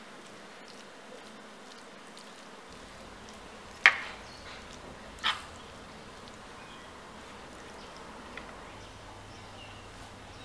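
Two sharp knocks about a second and a half apart over a faint, steady background hum.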